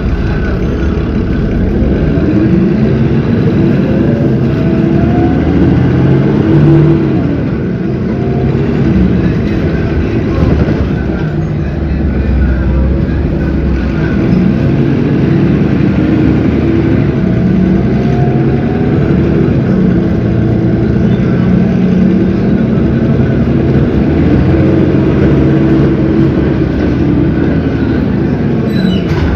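Cummins ISB 6.7 inline-six diesel of an Agrale MT17 city bus running under way, its pitch rising and falling several times as it accelerates and eases off.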